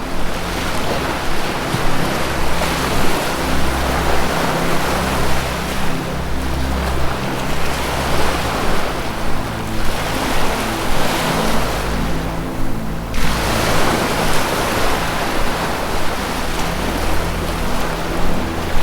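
Ocean surf washing in wave after wave, swelling and easing, with one wave falling away about 13 seconds in. Beneath it runs a low, sustained music drone whose notes shift slowly.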